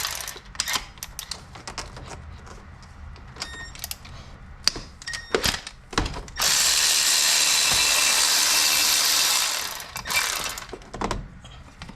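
Hand ratchet clicking and metal tools clinking while bolts are worked on the engine. About halfway through comes a steady loud hiss lasting about three seconds, then it stops.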